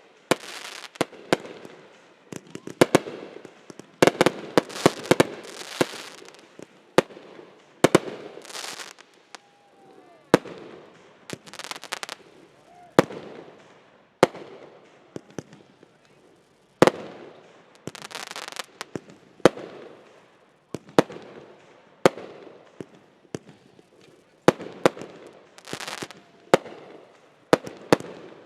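Consumer fireworks going off in quick succession: dozens of sharp bangs and pops, mixed with hissing, crackling stretches of up to about a second each.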